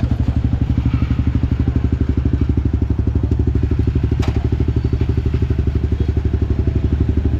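Motorcycle engine running steadily while riding, a low, even throb of about a dozen beats a second. A single sharp click about four seconds in.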